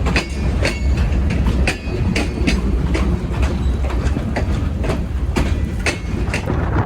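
A passing train's wheels clicking over rail joints, about two clicks a second at uneven spacing, over a heavy low rumble.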